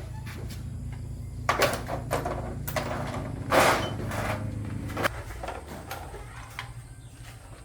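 A steady low hum with scattered clicks and knocks of objects being handled, one louder knock about three and a half seconds in; part of the hum stops about five seconds in.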